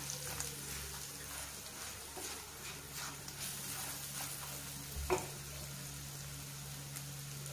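Spiced garlic, ginger and green chilli paste gently sizzling in oil in a non-stick kadhai over a low gas flame, stirred and scraped with a silicone spatula. A single light knock about five seconds in, over a steady low hum.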